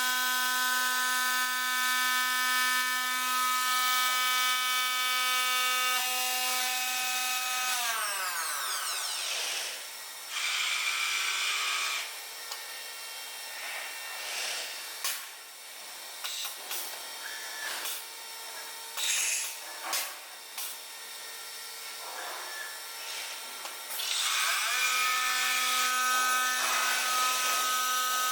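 Spindle motor of a 5-axis CNC stone-working machine running with a steady high whine, then winding down about 8 s in. Irregular clattering and sharp clicks follow while it is stopped, and near the end it spins back up to the same steady whine.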